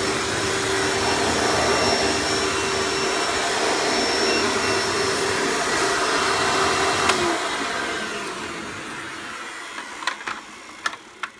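1995 Hoover Preferred (Elite) upright vacuum's 7.2-amp direct-air motor running steadily with the crevice tool on its hose. About seven seconds in it is switched off with a click and winds down, fading away, and a few light clicks follow near the end.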